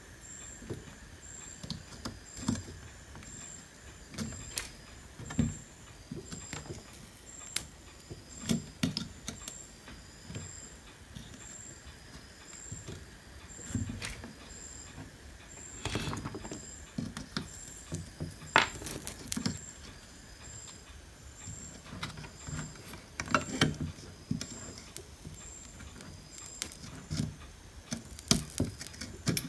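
Irregular clicks, taps and knocks of hand tools and a circuit board being handled while parts are desoldered, busiest about halfway through and near the end. A faint high pip repeats about one and a half times a second underneath.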